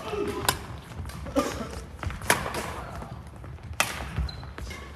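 Badminton rally: sharp racket strikes on the shuttlecock, several of them about a second apart, with thuds of footfalls on a hall floor.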